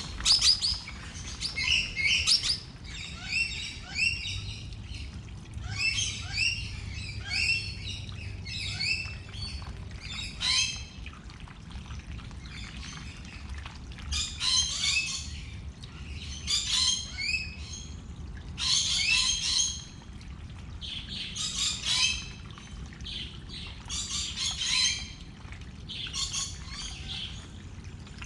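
Small birds chirping in repeated quick clusters of high notes, a burst every second or two, over a steady low hum.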